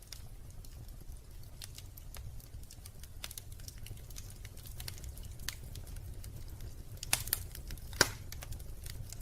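Wood fire crackling in a fireplace: scattered sharp pops and snaps over a low steady rumble, with two louder pops about seven and eight seconds in.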